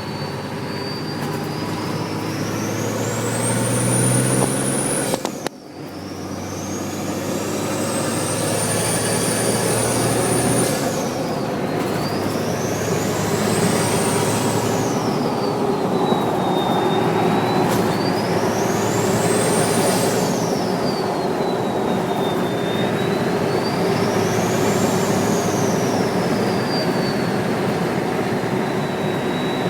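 Nissan Patrol TD42 inline-six turbo diesel revved five times. Its turbo whistle climbs to a high pitch with each rev and falls back as the revs drop; the first two revs are held at the top for a few seconds, the last three peak and fall straight away. A short break in the sound comes after the first rev.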